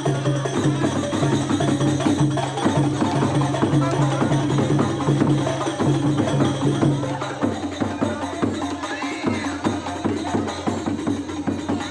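Procession music for dancing horses, played with drums and percussion to a steady beat. A pulsing low pattern drops out about seven seconds in while the rest of the music carries on.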